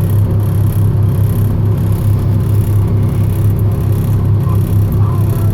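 Semi truck's engine giving a steady low drone with a slight pulsing, as heard while the truck is running.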